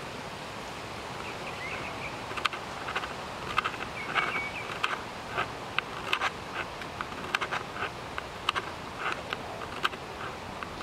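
Birds chirping and clicking irregularly, with a few short whistled calls, over a steady outdoor hiss.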